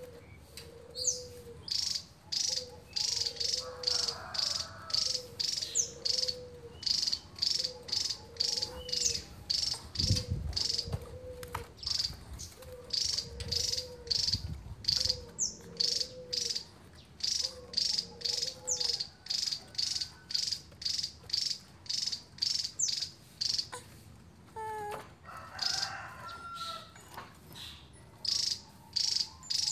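Javan tesia singing in rapid high-pitched bursts, repeated about twice a second without a break. A lower call from another bird repeats beneath it for much of the time.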